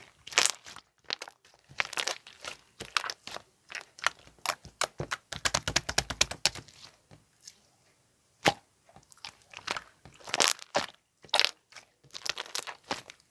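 Clay slime being squished and pressed by hand, making irregular crackling clicks and pops. About five seconds in comes a quick run of many small clicks.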